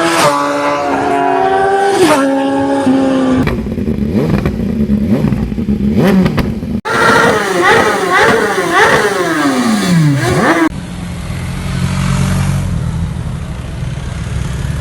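Superbike engines revving hard through loud exhausts, in three abrupt takes: revs rising and falling, then a quick run of rev blips that ends in a long falling note, then a steady low exhaust rumble near the end.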